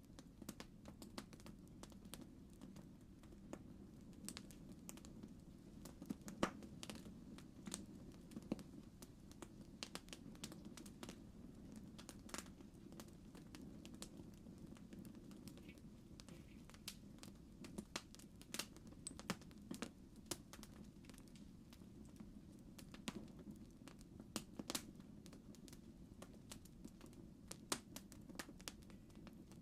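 Campfire crackling: irregular snaps and pops of burning wood over a low, steady rumble of flame.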